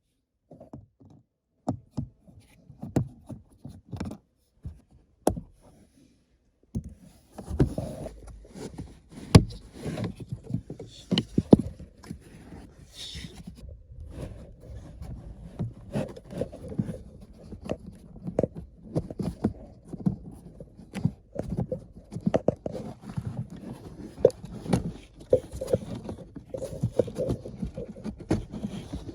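Hand-work on the plastic parts around a car's cabin air filter housing: a few sharp clicks and knocks, then from about seven seconds in continuous rustling and scraping with frequent small knocks.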